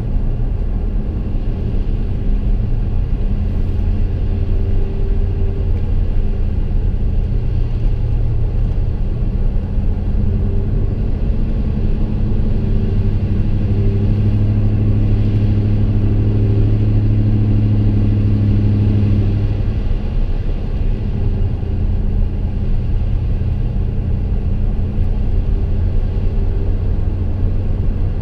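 2015 Chevy Silverado's 5.3-litre V8 heard from inside the cab while driving, through Kooks long-tube headers and a Gibson M.W.A muffler with no resonator: a steady low exhaust drone. The drone builds a little before the middle and eases off abruptly about two-thirds of the way in.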